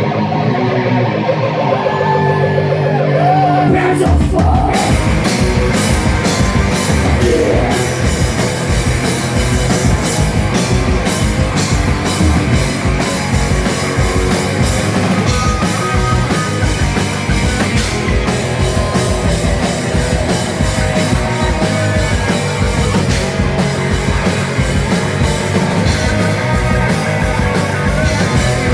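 Heavy metal band playing loud live: a distorted electric guitar starts alone, and drums and bass come in about four seconds in with a fast, driving kick drum under the riffing.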